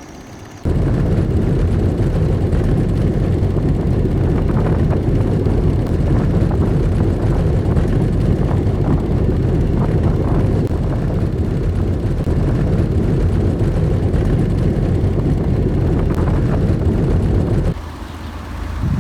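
Loud steady engine noise that cuts in sharply just after the start and cuts off abruptly near the end.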